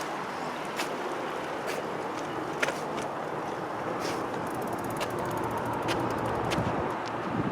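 Bicycle riding on a paved trail: steady tyre and wind noise, with scattered clicks and a short run of fast ticking about halfway through.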